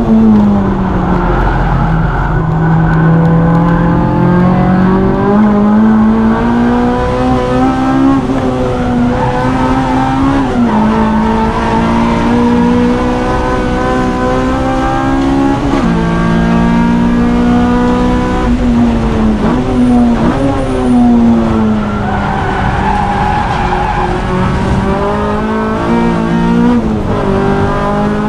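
Car engine being driven hard on a race circuit. The revs climb through the gears with sudden drops at the upshifts, then fall away and build again through corners.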